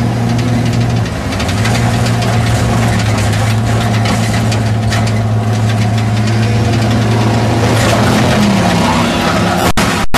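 Dirt-track enduro race car's engine running hard at a steady pitch, heard from inside the car with road and track noise over it. Near the end the engine pitch wavers, and the sound cuts out for an instant twice.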